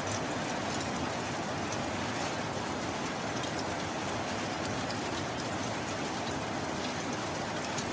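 Steady heavy rain, an even hiss with scattered drop ticks.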